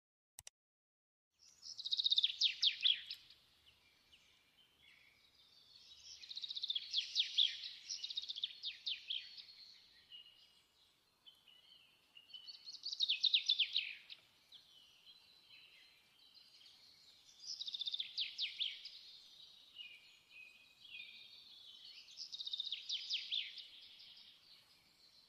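Birdsong: a songbird singing five phrases of fast, high chirping trills, one about every five seconds, with softer twittering between them. A single short click comes just before the song begins.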